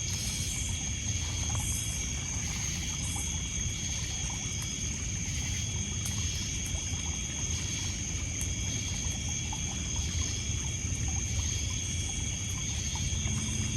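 Evening lakeshore ambience: crickets and other insects chirping in a steady, high-pitched chorus with a pulsing layer above it, over the low wash of water lapping on a pebble beach. Faint scattered ticks from a crackling campfire.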